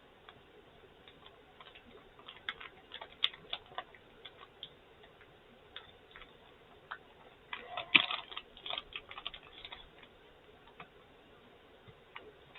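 A person chewing a gummy bear: faint, scattered wet mouth clicks and smacks, with a denser run of clicks about eight seconds in.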